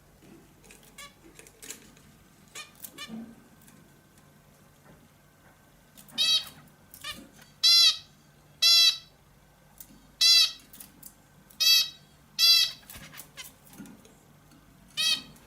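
A bulbul calling: soft, scattered chirps at first, then from about six seconds in a run of short, loud calls, roughly one a second.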